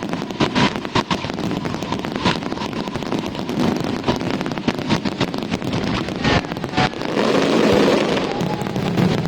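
Aerial fireworks going off in rapid succession, a dense run of sharp crackling bangs with no break, growing thicker with a steady noisy rush in the last couple of seconds.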